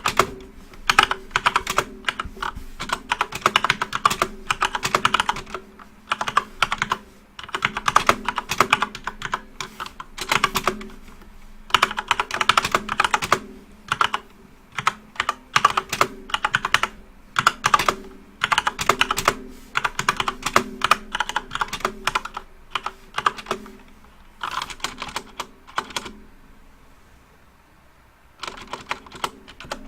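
Backlit computer keyboard being typed on, rapid key clicks coming in bursts of a second or two with short pauses between, and a longer pause near the end.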